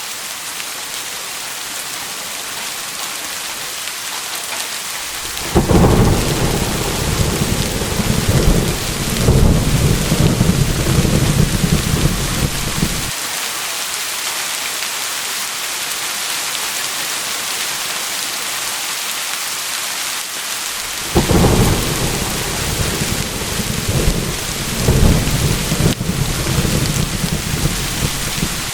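Steady rain falling, with two rolls of thunder: one begins with a sudden clap about six seconds in and rumbles on in swells for about seven seconds, and a second starts the same way about twenty-one seconds in and is still rumbling near the end.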